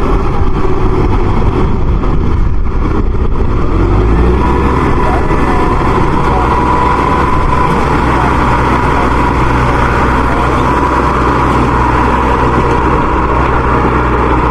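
Heavy farm-machine diesel engine running hard. About four seconds in, its low note strengthens and a steady whine sets in above it.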